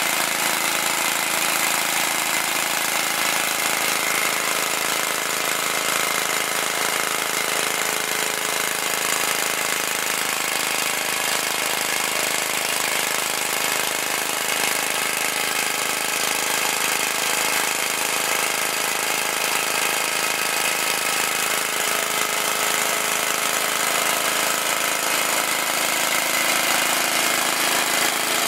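Glass-cylinder demonstration engine running steadily at an even pace.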